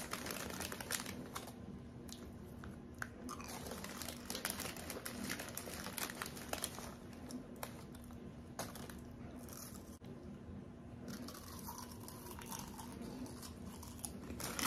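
A person chewing and biting a crunchy snack close to the microphone, with irregular crunches and some crinkling of packaging. A faint steady hum runs underneath.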